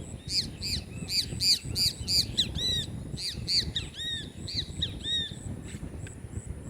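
A bird calling a rapid series of short arched chirps, about three a second, stopping a little after five seconds in. A low rumble runs underneath, and a faint high pulsing buzz.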